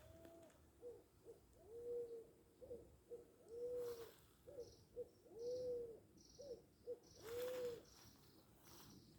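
A bird giving a repeated low hooting call. Each phrase is a couple of short notes followed by a longer arched hoot, and the phrase comes four times at an even pace.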